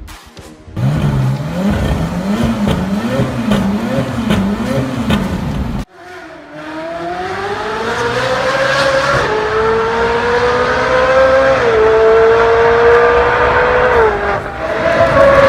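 Ferrari engine revved repeatedly, its pitch rising and falling about five times. After a sudden cut, an engine accelerates hard, its pitch climbing and growing louder for several seconds, then dropping near the end.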